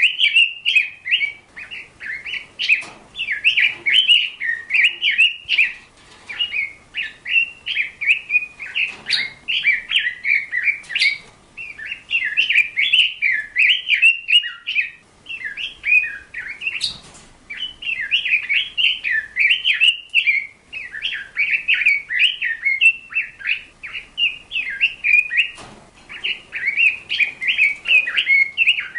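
A bird chirping and twittering almost without a break in fast runs of short, high notes, with a few brief pauses.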